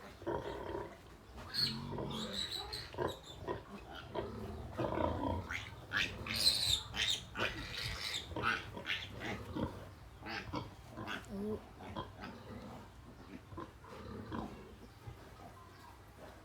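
Two-day-old piglets squealing in many short, shrill calls as they nurse at the sow, loudest about six to eight seconds in.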